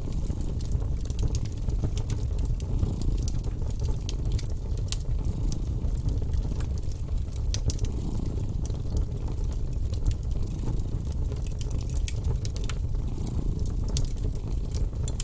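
Wood fire crackling with scattered sharp pops throughout, over a steady low rumble of a cat purring.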